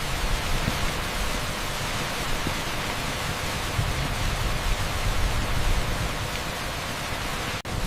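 Torrential rain pouring on an asphalt street: a steady, dense hiss, with a split-second drop-out near the end.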